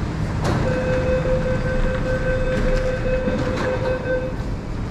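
MTR East Rail Line R-Train electric multiple unit running, with a steady single-pitched tone that starts about half a second in after a click, holds for nearly four seconds, then cuts off.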